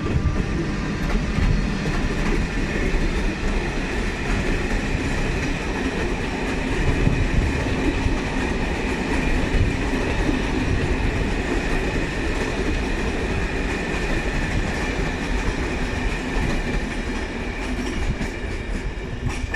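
A train running past on the track: a steady, loud rumble of wheels on rail, with a steady high tone above it.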